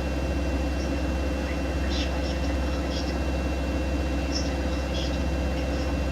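Siemens Siwamat iQ 716 front-loading washing machine running mid-cycle: a steady low motor hum with a thin, constant high whine and faint scattered ticks.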